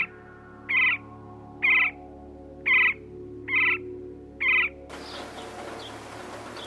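An animal calling in short, even, pitched calls about once a second. About five seconds in, the recording cuts to a steady outdoor hiss with faint high bird chirps.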